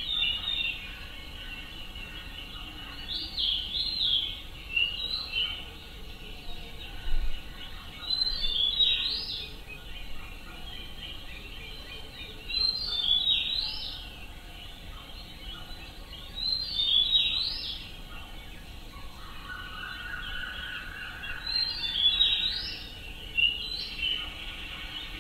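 A songbird singing, repeating a short phrase of quick high rising and falling notes every four or five seconds.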